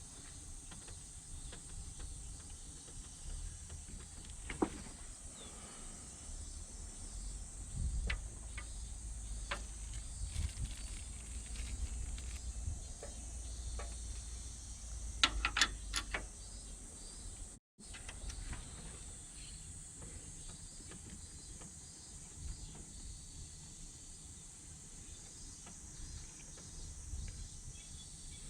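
Scattered sharp clicks and knocks, with a small cluster about halfway through, over a steady high hiss and a low rumble that fades after the first half.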